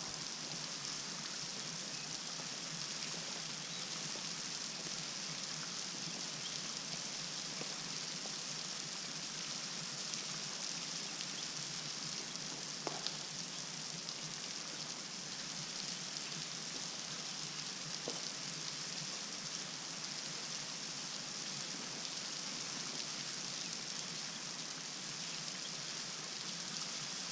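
A waterfall running low, down to a trickle, its thin flow and spray spattering steadily on rock with a hiss like rain.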